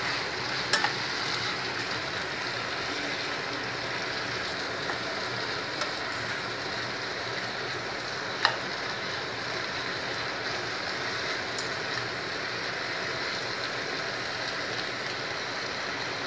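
Cubed elephant yam sizzling steadily as it fries in a stainless steel pan, stirred with a metal spoon that clicks against the pan a few times, loudest about eight seconds in. The last of the cooking water is frying off.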